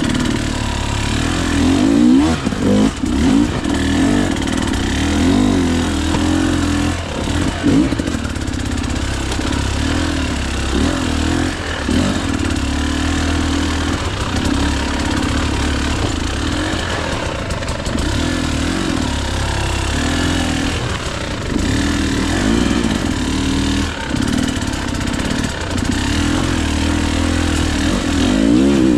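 Two-stroke engine of a KTM EXC 300 enduro bike running hard, its pitch rising and falling every second or two as the throttle is opened and closed.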